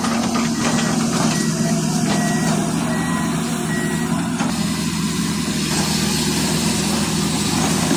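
Heavy earth-moving machine's diesel engine running steadily, with a reversing alarm beeping repeatedly until about halfway through.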